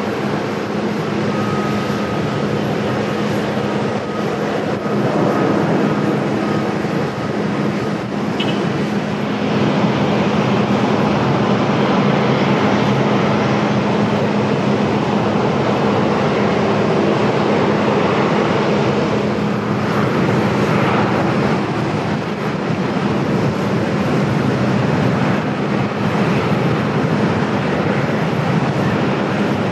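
Jet airliner engines running loud and steady, with a constant low hum under a wide roar of noise. A thin high whine is present over the first several seconds, and the noise swells slightly about ten seconds in.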